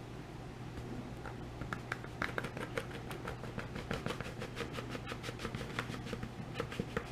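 Dry granular detergent powder being poured into a glass mason jar, a rapid patter of small ticks and taps against the glass starting about a second in.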